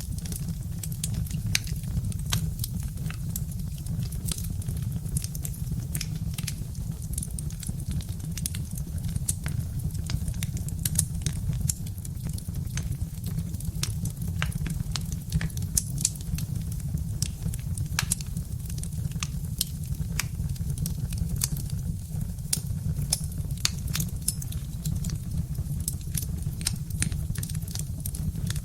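Birch-wood fire crackling, with many sharp, irregular pops and snaps over a steady low rumble.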